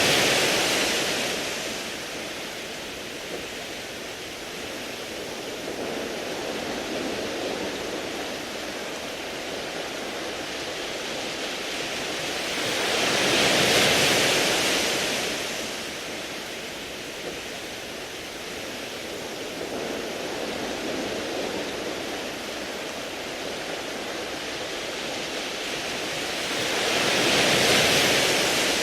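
Sea waves washing over a beach of round pebbles, a steady hiss that swells and fades as each wave comes in, about every 14 seconds: once at the start, once in the middle and once near the end.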